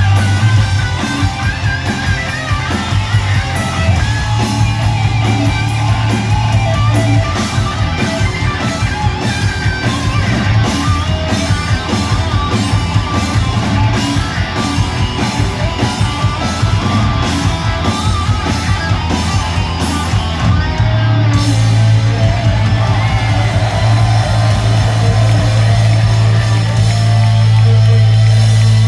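Heavy rock band playing live at full volume, with electric guitar over a held bass note and fast drumming. About two-thirds of the way through, the cymbal hits stop while the bass note and guitar carry on.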